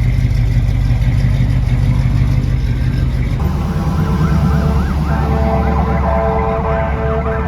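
A vehicle engine rumbling steadily, joined about halfway through by an emergency siren yelping with fast up-and-down wails.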